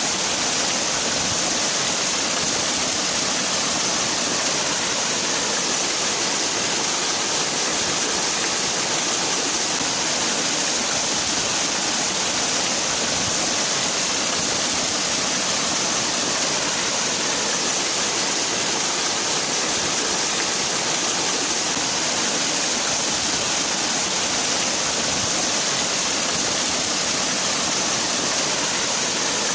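A waterfall's falling water: a steady rushing hiss, strongest in the high range, with no change.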